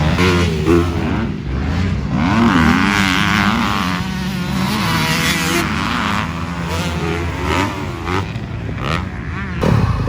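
Motocross dirt bike engines running and revving, their pitch rising and falling as the throttle opens and closes.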